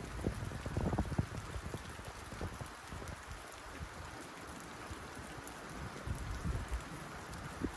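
Rain falling on a tin roof: a steady patter with irregular heavier drops hitting low and hollow, busiest about a second in and again near the end.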